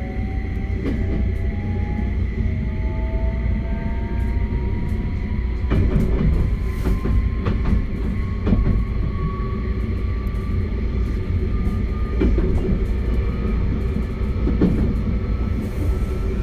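271 series electric train running under power, its Hitachi SiC VVVF inverter and traction motors giving several thin whining tones that rise slowly in pitch as it accelerates, over a steady rumble, with a few knocks from the wheels over rail joints.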